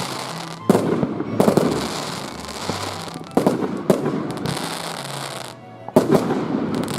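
Fireworks going off: several sharp bangs, the loudest about a second in and again near the end, with crackling between them.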